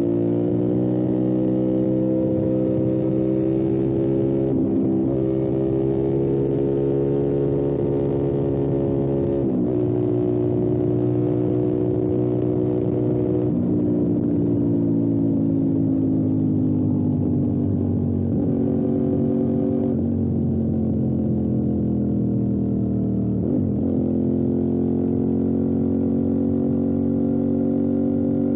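Motorcycle engine heard on board while riding, running at fairly steady revs that drift slowly up and down, with brief sharp pitch breaks about five, ten and twenty-four seconds in, as at gear changes.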